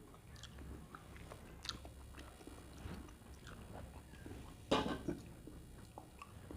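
A person eating a meal off a banana leaf, with wet chewing and small crackling clicks, and one louder crunch a little before five seconds in.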